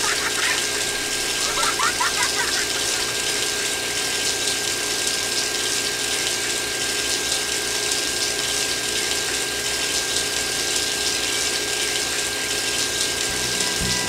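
Small water pump running steadily, with a high whine, as a thin jet of water hisses out of a clear plastic tube onto wet sand.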